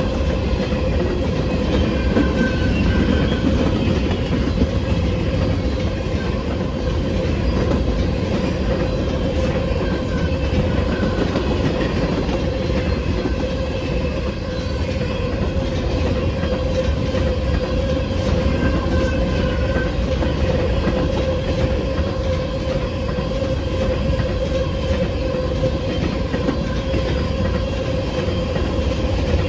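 Railroad cars of a passing train rolling steadily by on the rails, a continuous rumble with faint brief high wheel tones now and then.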